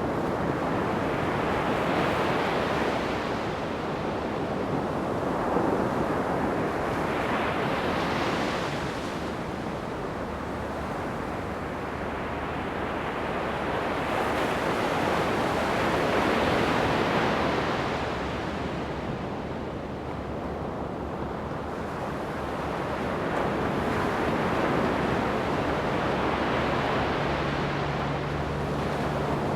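Ocean surf breaking and washing up a sandy beach: a continuous rolling noise that swells and fades in long surges every several seconds.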